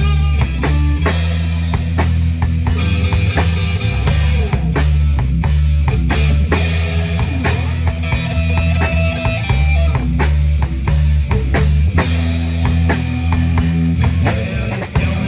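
Live rock band playing an instrumental passage: electric guitar over bass guitar and a drum kit with a steady beat.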